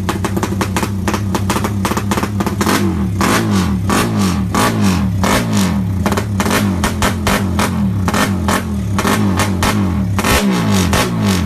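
Drag-racing motorcycle engine revved in repeated throttle blips, its pitch rising and falling, with many sharp crackles throughout.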